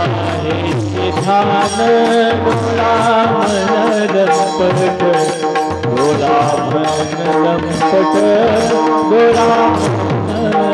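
Instrumental passage of devotional bhajan music: a hand drum plays a steady rhythm with bass strokes that bend in pitch, under sustained melodic tones and regular sharp metallic strikes.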